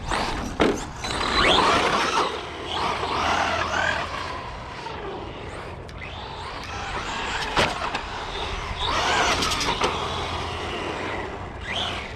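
Electric RC cars driving on asphalt: motor whine rising and falling with the throttle over tire hiss, with a couple of sharp knocks.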